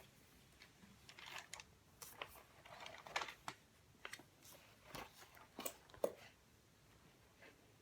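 Quiet, irregular taps and short scratchy strokes of desk work, in clusters over about five seconds, then fading back to faint room tone.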